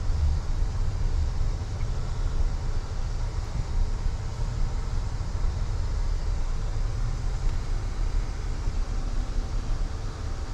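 Toyota Tundra pickup's engine idling with a steady low rumble, heard from inside the cab.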